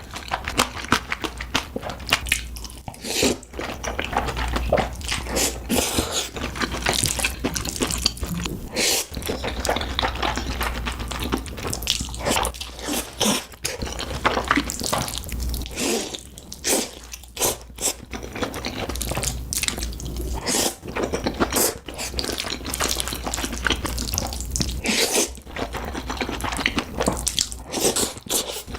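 Close-miked eating of black bean noodles and green chili pepper kimchi: wet chewing and smacking with crunchy bites, a dense stream of small clicks throughout.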